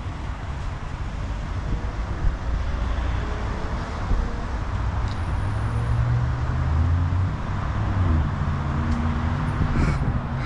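Wind and road noise from riding a bicycle alongside traffic, with a motor vehicle's engine passing about halfway through. A crow caws near the end.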